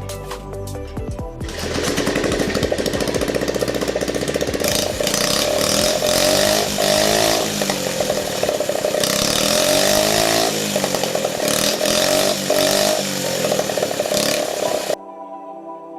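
79cc Predator single-cylinder four-stroke engine running and being revved up and down several times, its pitch rising and falling; it cuts off suddenly near the end.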